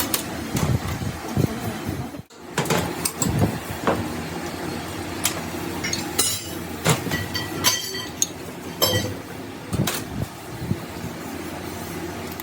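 Workshop repair noise: metal parts and tools clinking and knocking at irregular intervals over a steady mechanical hum, with the sound cutting out for an instant about two seconds in.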